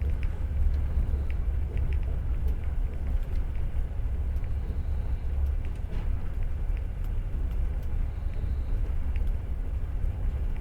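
Passenger train running, heard from inside the carriage: a steady low rumble with faint, irregular clicks and rattles.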